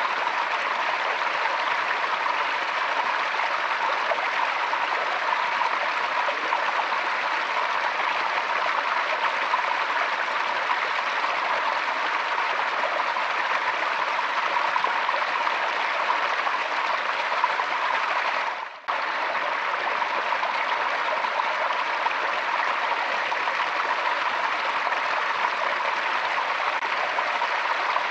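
Forest stream water running and splashing over stones in a steady, even rush. About two-thirds of the way in the sound dips briefly and then comes back abruptly.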